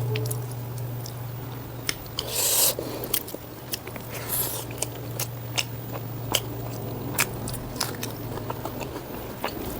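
Close-miked eating of pork ribs and rice: wet chewing with frequent sharp mouth clicks, and two longer crunchy, squishy bites about two and a half and four and a half seconds in, over a steady low hum.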